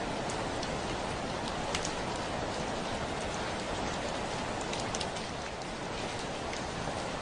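Steady rain pattering on a window pane, a constant hiss with scattered sharper drop ticks against the glass.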